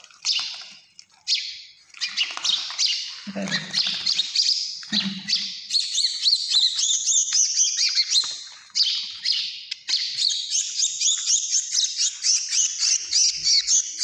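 A small bird chirping rapidly and repeatedly in high, sharp calls, sparse at first and nearly continuous from about halfway through.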